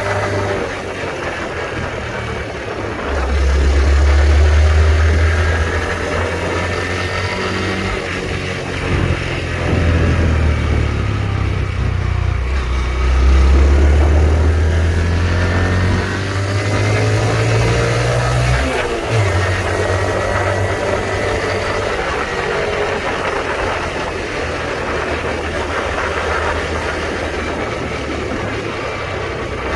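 Honda Trail 125's single-cylinder engine running under way, its pitch rising and falling with the throttle, over a heavy low rumble. About two-thirds of the way through, the pitch drops sharply and then climbs again.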